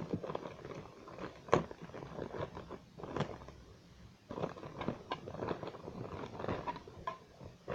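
Plastic parts of a model aircraft's display stand being handled and fitted: scattered clicks and taps with light scraping and rustling. The sharpest clicks come about one and a half seconds in and about three seconds in.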